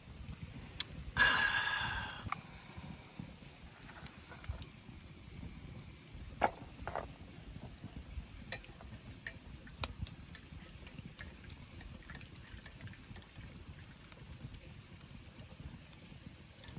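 Wood fire crackling in a camp fire pit, with small pops and snaps scattered throughout. About a second in there is one loud, short metallic ring that fades away.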